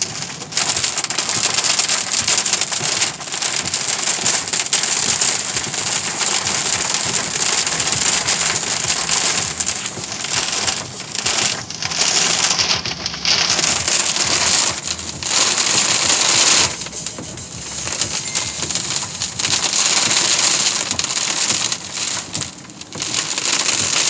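Heavy storm rain pelting down hard on a surface, a loud, dense hiss of many small hits that eases briefly a few times.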